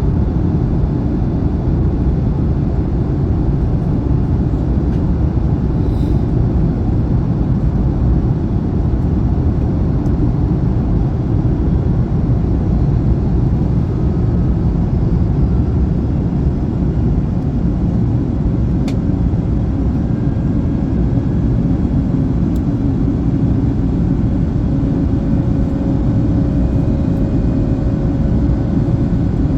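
Steady, dense cabin noise inside an Airbus A321neo airliner: the jet engines and the rush of air, a low even rumble with no change in level. A faint steady hum joins near the end.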